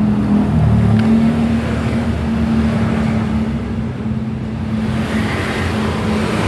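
A machine running steadily with a pitched hum, shifting slightly in pitch about a second in.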